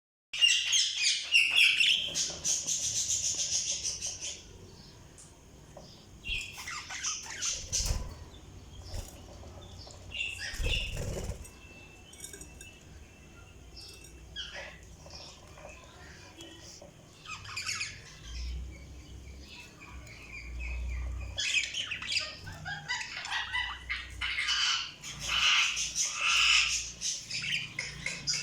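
Budgerigars chirping and warbling in bursts, with a long run at the start and another busy stretch in the last several seconds, broken by quieter gaps. A few low thumps fall in between.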